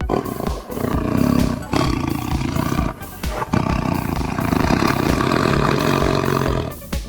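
Tiger roaring: three long, rough roars with short breaks between them, over background music with a steady beat.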